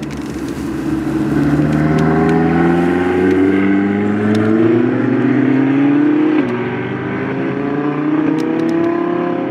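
Ferrari V8 accelerating hard, its engine note rising steadily through the revs, with a sudden dip for an upshift about six and a half seconds in before it climbs again.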